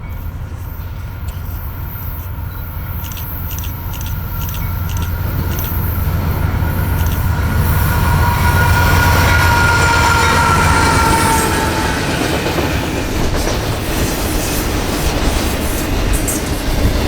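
Diesel freight locomotives passing at track speed, with a low engine hum that builds to its loudest about halfway through, then a string of loaded autorack cars rolling by with rhythmic clicking from the wheels over the rail joints. A high ringing tone slowly drops in pitch in the middle as the locomotives go by.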